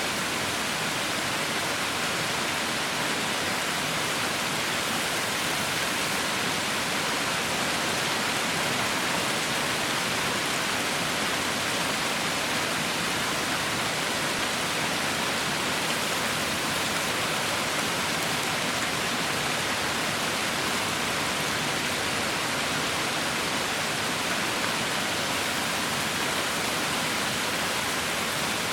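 Heavy rain falling steadily, a dense even hiss with no separate drops or thunder.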